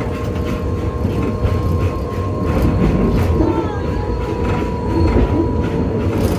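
Steam-hauled passenger train running, heard from a car just behind the locomotive: a steady, loud rumble of the wheels on the rails.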